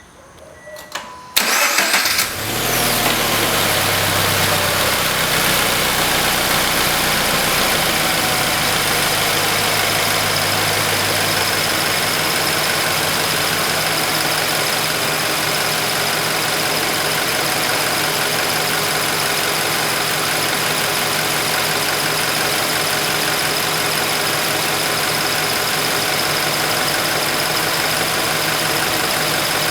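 Subaru BRZ flat-four engine starting about a second and a half in, then idling steadily, the idle settling lower after about ten seconds. Under the idle is the chirping of the high-pressure fuel pump, the noise the owner is recording.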